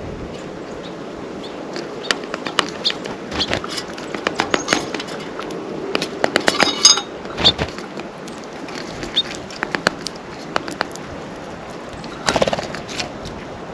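Birds at a seed feeder: bursts of irregular sharp taps and clicks as they peck at seed and land on the feeder, over a steady faint hiss.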